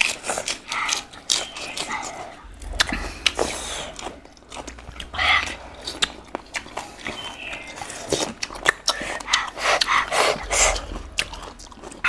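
Close-up chewing and lip-smacking of two people eating boiled pork and greens by hand, with many sharp wet mouth clicks.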